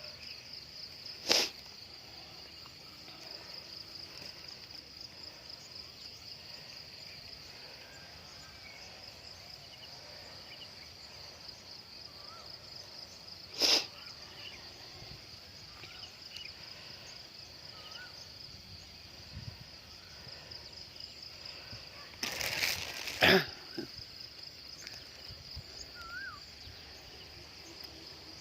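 Steady pulsing insect chorus from crickets or cicadas. A few sharp snaps stand out above it: one about a second in, one about 14 s in, and a louder cluster around 22–23 s. Faint short bird chirps come now and then.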